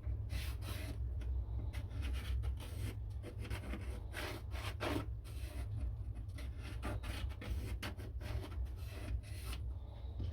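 Hand abrasion on wood: irregular short rasping strokes, as of a file or sandpaper worked back and forth, stopping shortly before the end.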